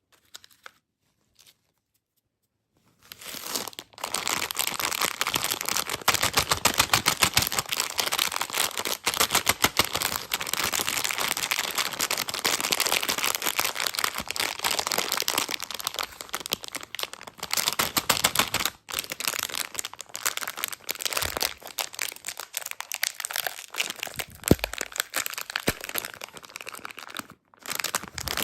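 Packaging crinkling and tearing: a dense, continuous crackle starting about three seconds in after a few soft clicks, with brief pauses near the end. It is typical of a candy wrapper being opened.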